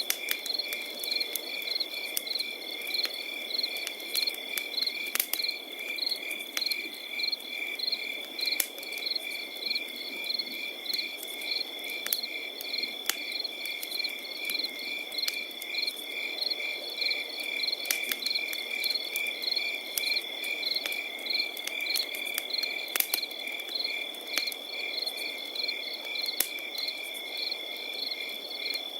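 Crickets chirping in an even, continuous rhythm over a steady high trill, with a campfire crackling and popping now and then beneath them.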